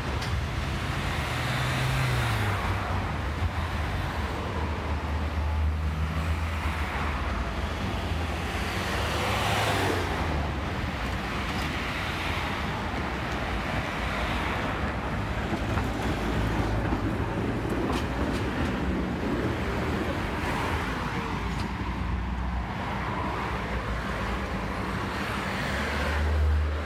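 Street traffic along a tram line: passing vehicles and a tram running, a steady low hum under continuous road noise.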